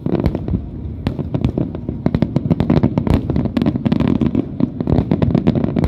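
Aerial fireworks display: a rapid barrage of shell bursts, sharp cracks and deeper booms following one another several times a second without a break, over a continuous low rumble.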